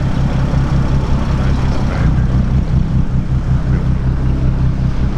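Boat engine running steadily at cruising speed, a low even hum heard from on board.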